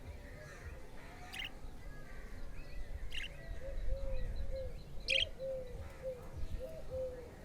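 Pet budgerigars chirping: three short, sharp chirps about two seconds apart, with a run of short, low, hooting notes starting about three seconds in.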